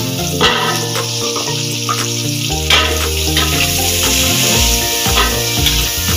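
Sliced onions and chilies sizzling in a metal wok while a spatula stirs and scrapes them, with a couple of sharper scrapes. Background music with steady, stepping notes plays along.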